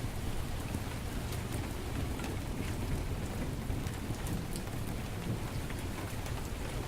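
Heavy rain falling steadily over a low rumble, with scattered sharp crackles and pops from a wood fire in a fireplace.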